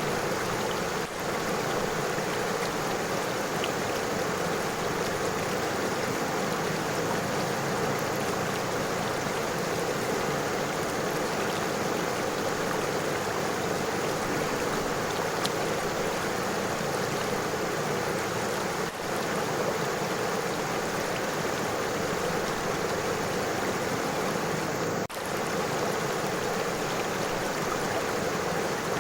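River water running steadily over stones and pebbles, a constant rushing and burbling.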